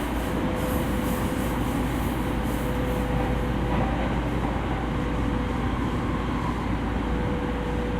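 Running noise inside a JR East E231 series commuter train car at speed: a steady rumble of the wheels on the rails with a steady hum through it.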